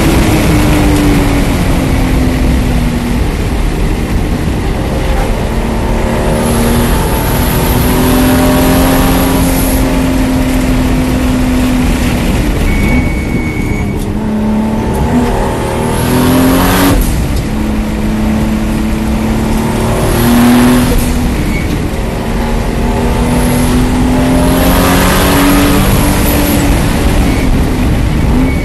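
Toyota Supra MKIV's inline-six engine heard from inside the car at racing speed on track, its pitch following throttle and gear changes. It holds high, dips and breaks up as the car brakes hard for a corner around the middle, then climbs again several times under acceleration.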